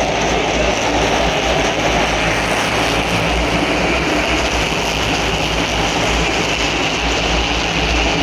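NASCAR Cup stock cars' V8 engines running at race speed around the track: a loud, steady, unbroken drone of many cars at once.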